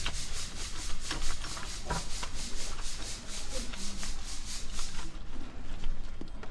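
Fast rhythmic scrubbing on a motorcycle during a wash, about five strokes a second, stopping about five seconds in, with a few light knocks.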